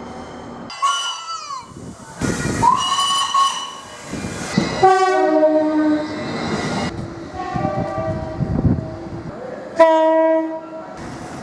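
Several train horns and whistles one after another, each cut short: a brief whistle falling in pitch about a second in, a longer whistle over loud hiss, then horn blasts whose two tones step down in pitch, the last one starting abruptly near the end.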